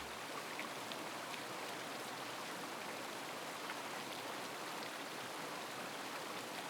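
A steady, even hiss with faint scattered ticks, with no chanting or singing-bowl tone to be heard.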